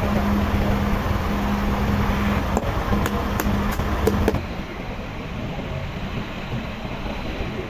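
Machinery running with a steady low hum and a few sharp clicks. About four seconds in, the sound changes abruptly to a quieter, duller running noise.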